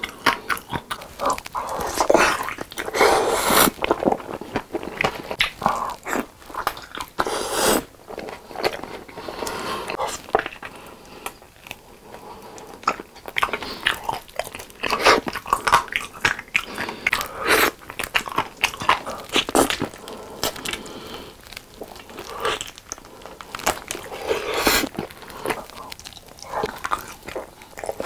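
Close-miked eating of sauce-coated fried chicken drumsticks: crunchy bites into the coating and wet, sticky chewing in irregular bursts as the meat is pulled from the bone.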